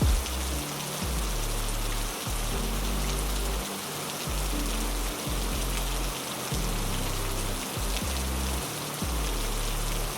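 Steady heavy rain hiss over a low, slow-moving musical drone whose deep notes change every second or so.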